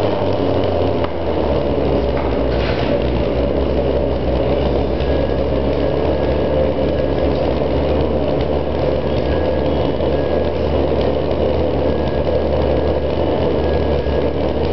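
Home-built jam jar pulse jet engine running, a loud steady buzzing drone that holds at an even level.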